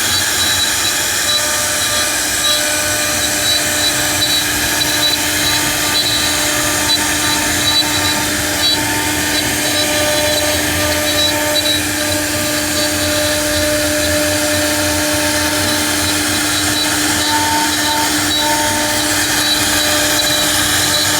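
CNC router spindle running at a steady speed as it cuts, a constant whine over the hiss of the bit milling the material.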